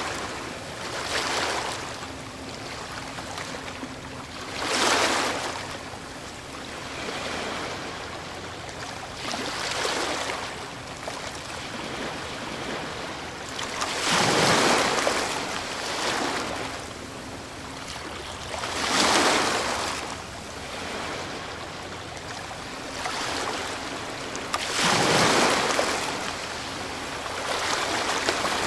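Ocean waves breaking on a shore: a steady hiss of surf that swells into a louder crash every few seconds, the strongest around 14, 19 and 25 seconds in.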